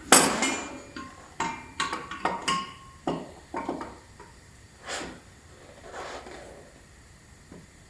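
Metal suspension strut assemblies being handled and set down side by side, a string of knocks and clanks, some with a short metallic ring. The clanks come thick in the first few seconds, then a few lighter knocks follow further apart.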